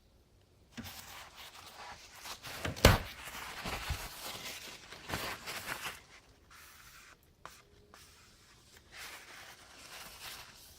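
Close handling noise: rustling with a few sharp clicks, the loudest about three seconds in. The rustling quietens after about six seconds.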